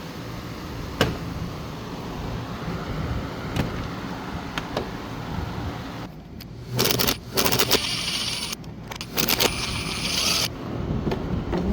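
Hand tools and parts being worked on a motorcycle: scattered light metal clicks, then a few seconds of loud rattling, scraping bursts in the second half.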